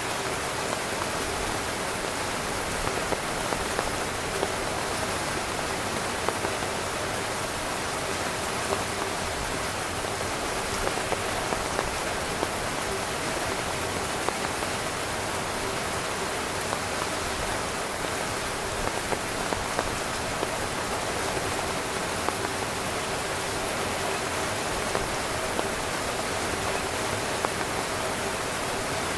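Heavy rain falling steadily on a camping tent's fabric: a dense, even patter with scattered louder single drop hits.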